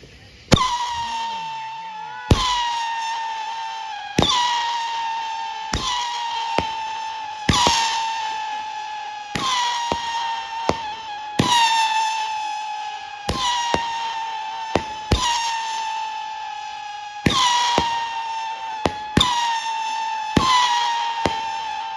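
Consumer firework cake (Red, White and RAWWWR) firing shot after shot, about one every two seconds, about a dozen in all. Each shot is a sharp bang followed by a loud, slightly falling whistling howl. Smaller cracks sound between some of the shots.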